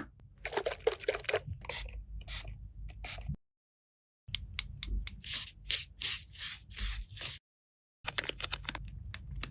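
Close-up handling of plastic toys and packaging: quick clicks, taps and short rustles, with a few brief squeaks near the start. Twice the sound cuts off abruptly into dead silence, then resumes.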